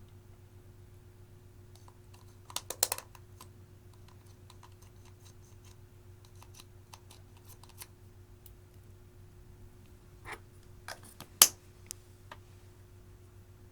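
Clear slime being squished and worked by hand, giving sharp clicks and pops in two bursts: a cluster about two and a half seconds in and another from about ten to twelve seconds, with a few scattered clicks between them over a low steady hum.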